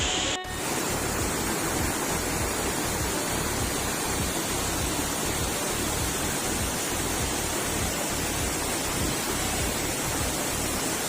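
Waterfall's falling water: a steady, loud rushing roar with a low rumble, broken by a brief dropout about half a second in.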